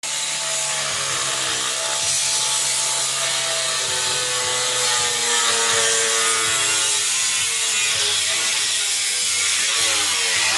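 Power tool grinding on metal: a steady hiss over a low hum, its motor pitch wavering slowly as the load changes.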